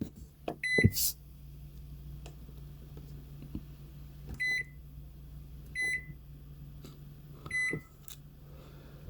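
Microwave oven control panel beeping four times, short single beeps spaced a second or more apart, as another 3.5 minutes of cooking time is keyed in. A knock comes about a second in, and a low steady hum runs underneath.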